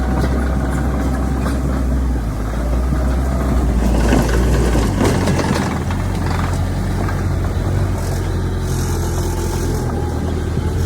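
Heavy diesel engine of earthmoving machinery running steadily, its pitch shifting about 2 and 5 seconds in, with a stretch of clattering noise midway.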